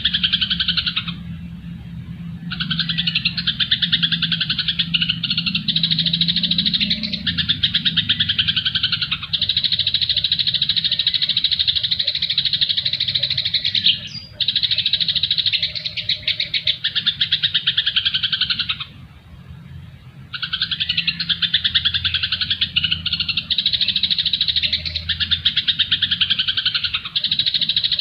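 Songbird calls in long phrases of rapid, dense chattering notes, broken by a short pause about a second in and another about two-thirds of the way through.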